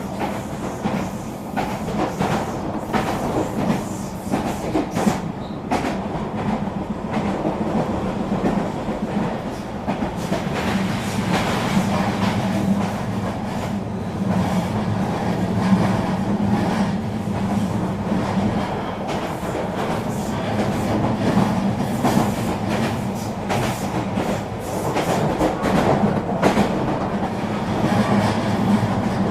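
Eurobahn regional train running along the line: a steady rumble and hum with many short clicks of the wheels over the rails.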